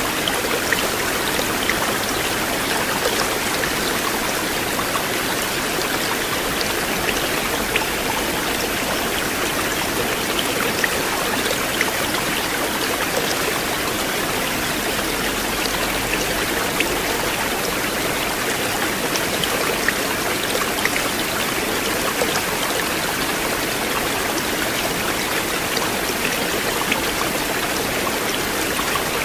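River water flowing steadily, an even rushing sound with scattered small splashes over it.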